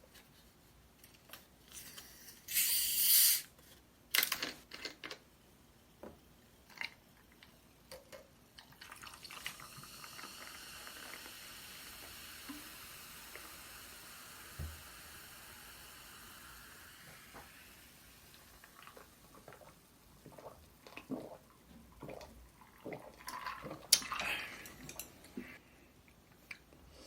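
Cola being poured into a cup and fizzing in a long steady hiss, after a loud short hiss about three seconds in and amid scattered clicks and taps of containers and utensils.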